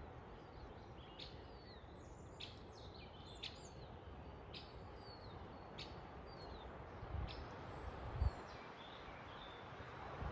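Forest birds giving short chirps and quick downward-sliding whistles over a steady low rush of background noise, with the calls coming thickest in the first two-thirds. Near the end a few low rumbling bumps come through, the loudest about eight seconds in.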